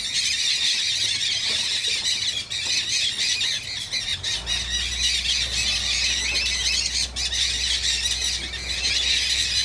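A mixed flock of parrots, mealy amazons and dusky-headed parakeets among them, squawking and screeching all at once in a dense, unbroken chatter.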